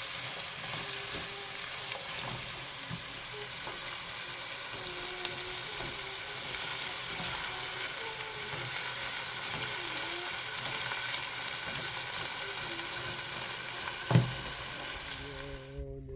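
Food sizzling in hot oil in a frying pan, a steady crackling hiss. There is a single loud thump about fourteen seconds in, and the sizzle cuts off abruptly just before the end.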